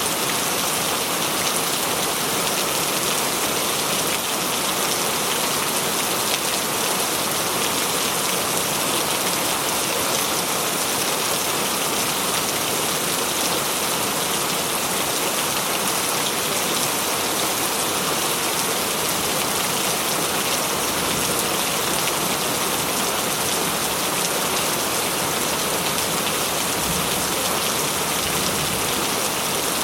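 Heavy rain falling in a steady, even downpour, with no thunder.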